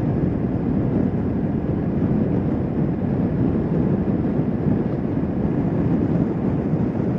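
Motorcycle riding at a steady speed: a constant rush of wind and road noise with the engine drone underneath, unchanging throughout.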